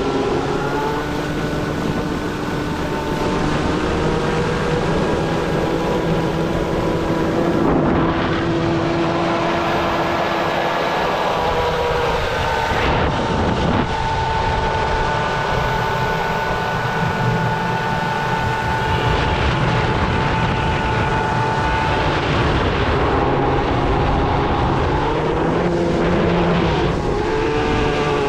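Electric kart boat running on the water: a steady whine of several tones that slowly rise and fall in pitch as it changes speed, over the rush of water and wind.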